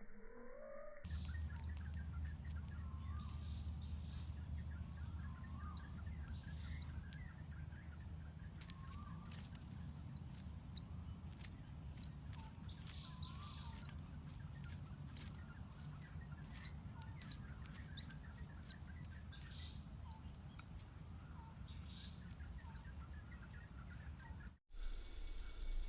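Bulbul nestlings giving thin, high, upward-sweeping chirps, sparse at first and then about twice a second, over a low steady rumble. The sound cuts off abruptly near the end.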